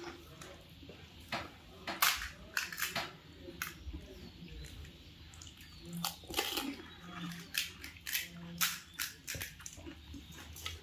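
Crisp panipuri shells cracking and crunching as they are bitten and chewed: a run of sharp, irregular crunches.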